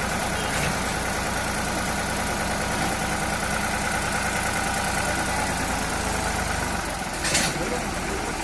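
Escort tractor engine idling steadily. A short burst of noise comes about seven seconds in.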